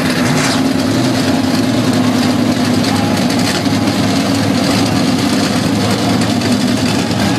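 Hot rod engine idling, loud and steady.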